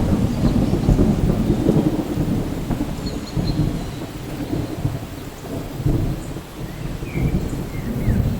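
Rolling thunder over steady rain. The rumble is loudest at the start and keeps swelling and fading in waves.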